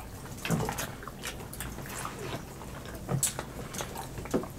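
Close-miked wet chewing, lip-smacking and finger-licking of people eating fried chicken wings, a run of short smacks and clicks with a few louder ones about half a second in, just after three seconds and near the end.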